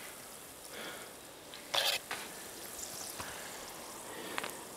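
Food sizzling faintly in a cast iron skillet over a campfire, a steady low hiss, with one short sharp clatter about two seconds in and a few small clicks later.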